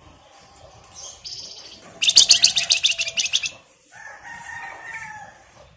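Flamboyan (wergan Jawa) songbird singing. A short buzzy high call is followed by a loud, fast, rattling chatter of about nine notes a second lasting a second and a half. Softer, lower warbled notes come near the end.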